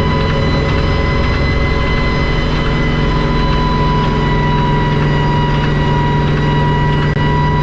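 Kamov Ka-26 helicopter running steadily, its twin radial piston engines and coaxial rotors giving a constant drone with a high whine on top.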